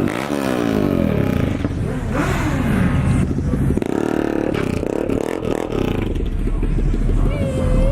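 Car engines revving hard, their pitch sweeping up and down several times.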